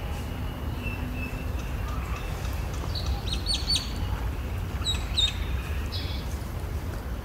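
Small birds chirping: a quick run of short high chirps about three seconds in and a couple more about five seconds in, over a steady low background rumble.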